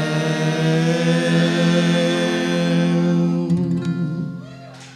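Bluegrass band's closing chord: voices in harmony holding the last note over acoustic guitar and other strings, cutting off about three and a half seconds in, with the strings ringing out more quietly after.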